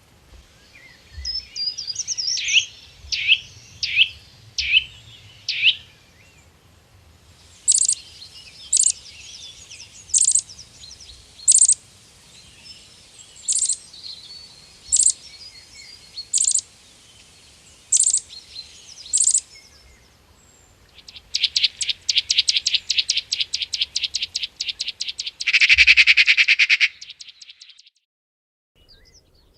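Birds calling. First a run of about six quick falling notes, then a sharp note repeated about every second and a half, then a fast trill that ends in a louder, buzzier trill.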